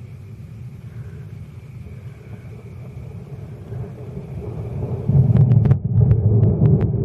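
Thunder rolling, a deep rumble that builds steadily louder and peaks a little after halfway, with a run of sharp crackles near the end.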